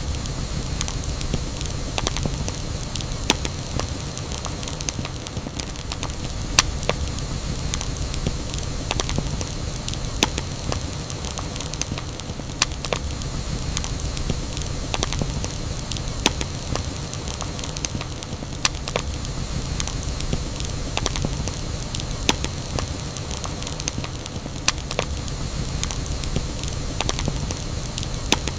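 Wood fire burning with a steady low rumble and hiss, punctuated by irregular sharp crackles and pops.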